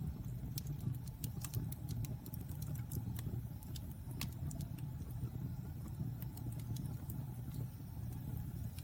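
Wood fire burning in a fireplace: a steady low rumble of the flames, with frequent sharp, irregular crackles and pops from the burning wood.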